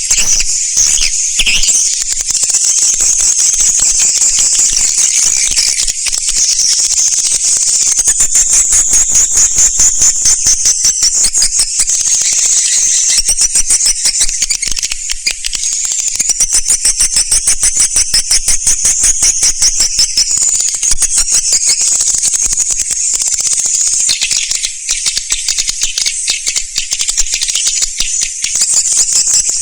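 Swiftlets twittering in a dense, unbroken, high-pitched chatter of very fast chirps: a swiftlet calling recording of the kind played to lure the birds.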